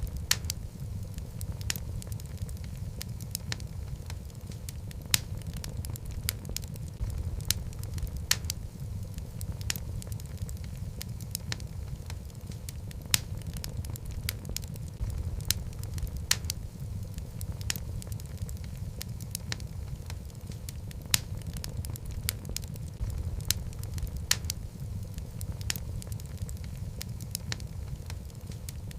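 Wood logs burning in a fireplace: a steady low rumble of flame with frequent sharp crackles and pops at irregular intervals.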